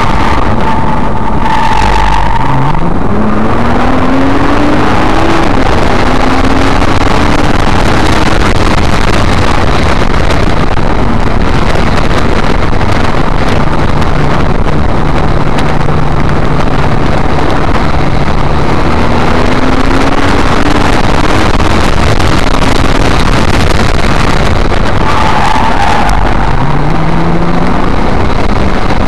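Nissan GT-R (R35) twin-turbo V6 heard from inside the cabin on a track lap, very loud. The revs climb four times as it accelerates through the gears, with a long stretch at steady revs in the middle.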